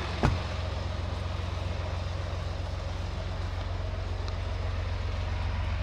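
Semi-truck diesel engine running steadily with a low, even rumble. A single sharp knock comes about a quarter-second in.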